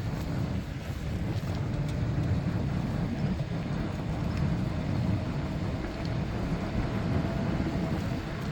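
Wind noise buffeting the microphone while riding a bicycle: a steady low rumble.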